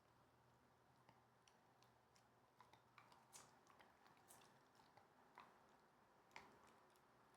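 Puppy gnawing a hard nylon chew bone, heard as faint, irregular clicks of teeth on the nylon.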